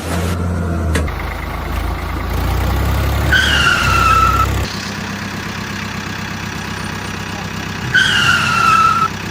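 Toy vehicle sound effects: a steady electronic engine-like hum, with two short falling whistle-like tones about four and a half seconds apart.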